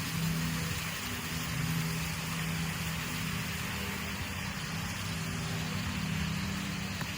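Steady low motor hum with an even hiss over it.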